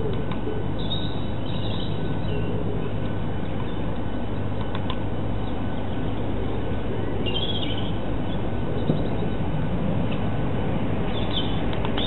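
Small birds chirping in short calls about three times over a steady low rumble and hiss, with a couple of faint taps.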